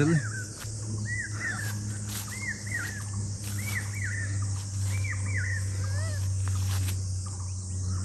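A bird calling in short rising-and-falling chirps, mostly in pairs, about once a second until shortly before the end, over a steady high hiss of insects.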